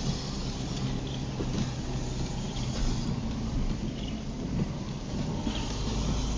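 Car driving in the rain, heard from inside the cabin: a steady low engine hum under a hiss of tyres and road noise.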